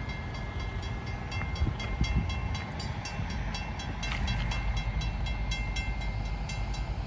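Train rolling by: a steady low rumble of wheels on rail with a fast, even clicking, about four clicks a second, and a faint high squeal that fades out about a second and a half in.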